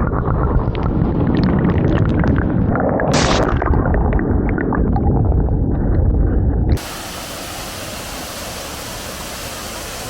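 Rushing water of a waterfall: at first a heavy low rumble with scattered clicks, then about seven seconds in it changes abruptly to a steady, even hiss of falling water.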